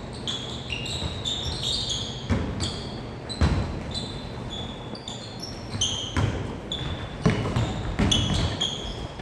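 Basketball being played on a court: sneakers squeaking on the floor again and again, with the ball thudding as it bounces several times.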